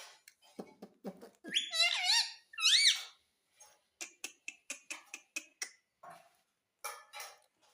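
Pet rose-ringed parakeet calling: two loud squawks with a bending pitch about two and three seconds in, then a quick run of short clicks and chirps.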